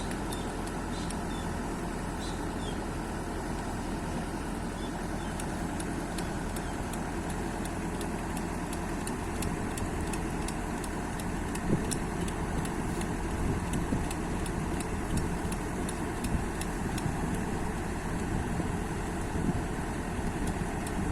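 Kobelco excavator's diesel engine running steadily while the repaired wheel is being tested, with scattered light clicks and a few louder knocks over it from about the middle on.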